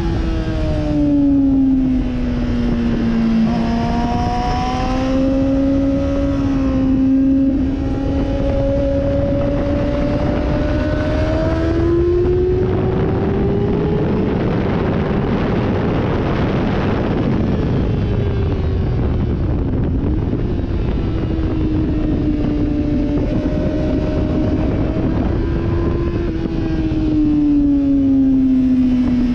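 Sportbike engine on a track lap, its pitch climbing and dropping repeatedly as the rider accelerates and slows, over a heavy rush of wind noise. For a few seconds around the middle the engine note is almost buried in the wind rush.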